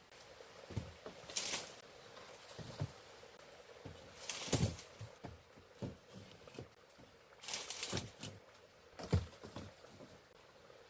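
Irregular knocks and taps with several short rustling, scraping bursts, a few seconds apart: the sound of hands handling material while working.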